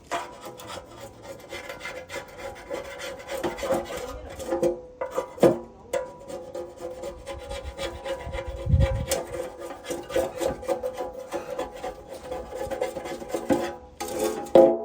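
Hand tool rasping over a metal engine part in quick, uneven strokes, the part ringing steadily under it, as rust and dirt are scraped off during the rebuild.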